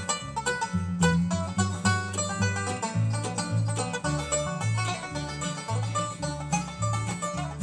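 Bluegrass band playing an instrumental break: a banjo picks rapid runs over strummed guitar and a walking bass line.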